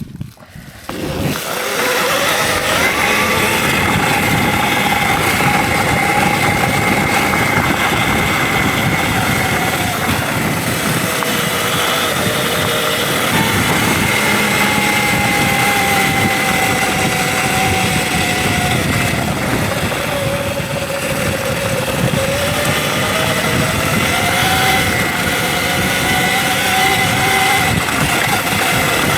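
Electric dirt bike riding a trail: the motor's whine slides up and down with the throttle over a steady rush of noise. The noise comes up sharply about a second in.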